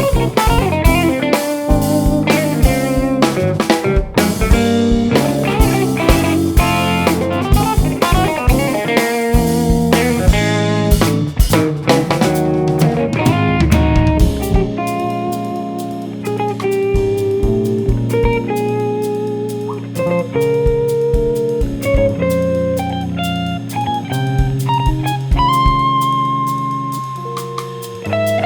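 Live jazz-fusion band playing an instrumental: electric guitar over bass and a busy drum kit. About halfway through, the drums mostly drop out, leaving long held guitar notes over the bass.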